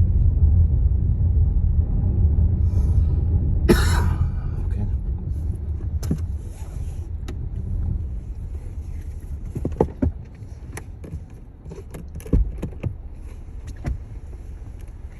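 Car's low road rumble from inside the cabin, dying away as the car slows. A sharp rustling burst comes about four seconds in, followed by scattered clicks and knocks.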